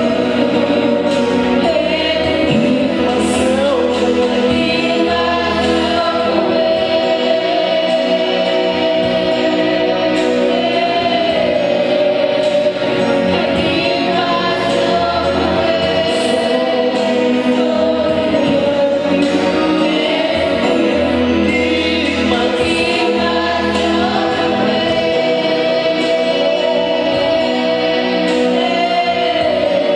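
Choir and congregation singing a gospel worship song over instrumental accompaniment.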